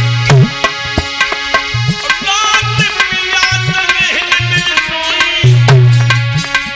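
Instrumental devotional music played on tabla-style hand drums. Deep bass strokes bend upward in pitch, sharper strokes cut in between, and a steady melody instrument runs under a bending tune.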